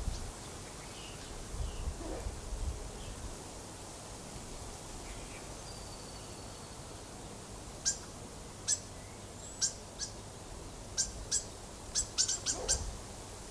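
Birds calling: a faint thin whistle near the middle, then a run of about ten short, sharp, high chirps in the last few seconds, coming closer together near the end, over a steady background hiss.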